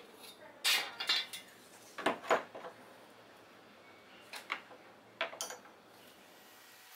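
Hand tools being handled, clinking and knocking against each other and against wood in short bursts of clatter, four groups of hits with pauses between.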